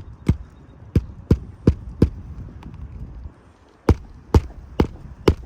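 Hammer striking roofing nails on an asphalt shingle roof: about ten sharp blows, six in quick succession, a pause of a second or two, then four more.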